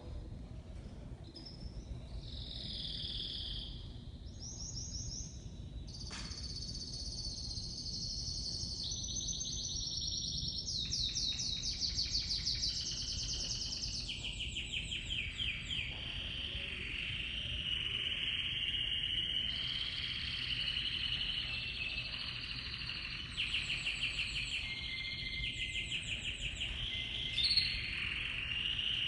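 Spanish Timbrado canary song: a continuous run of rolling trills and rapid repeated-note phrases that step between high and lower pitches every second or two, over a faint steady low hum.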